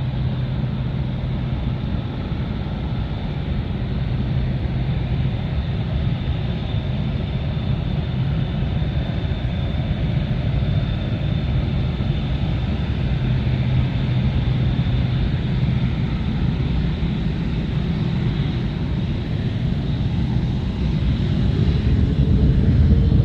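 Jet engines of a Boeing 767-300F freighter on its takeoff run: a steady low rumble with a thin high whine. It grows louder toward the end, with a rising tone as the aircraft comes closer.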